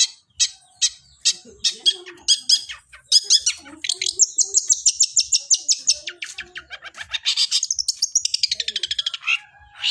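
Long-tailed shrike (cendet) singing in its imitation of squabbling Eurasian tree sparrows: sharp, high single chirps about twice a second, then a fast chattering run of notes that falls in pitch near the end.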